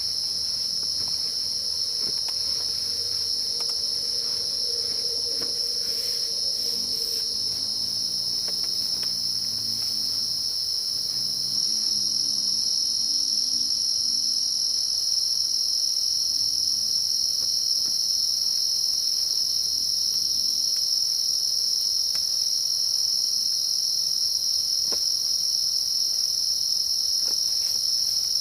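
Dense insect chorus: a steady, high-pitched trill with a fainter, higher band above it. It gets a little louder about twelve seconds in, and a few faint clicks sound over it.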